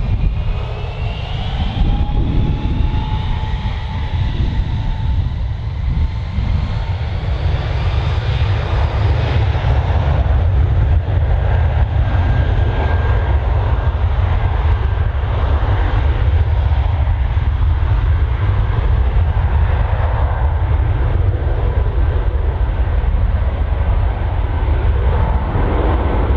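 Jet airliner on its takeoff run, its engines giving a loud, steady rumble that grows a little louder about ten seconds in, with a faint rising whine near the start.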